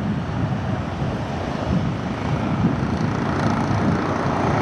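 Jet engines of a departing Southwest Boeing 737 running at high power, mixed with wind buffeting the microphone; the higher-pitched part of the engine noise grows louder from about three seconds in.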